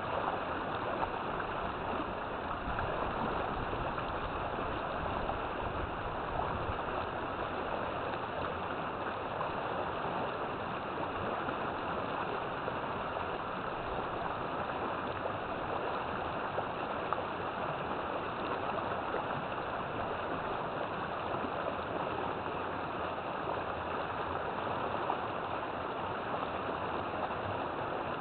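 River water flowing steadily, a continuous even rush with no distinct splashes.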